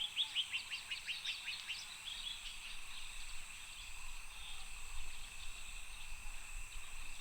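A bird singing a rapid run of short falling notes for about the first two seconds, over a steady high-pitched drone of insects.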